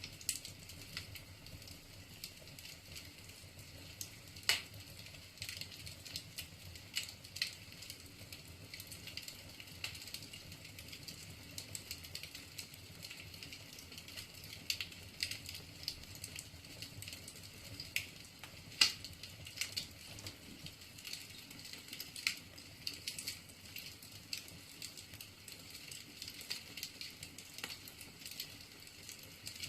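Firewood burning in a fireplace, crackling with irregular sharp pops and snaps over a low steady hiss. A louder pop comes about four seconds in, and the loudest about two-thirds of the way through.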